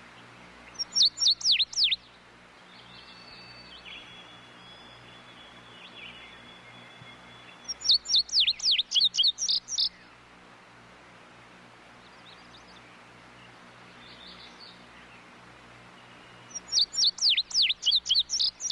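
A bird calling in three loud bursts about eight seconds apart, each a quick run of sharp notes falling steeply in pitch, about five a second. Fainter calls of other birds and a low steady hum fill the gaps.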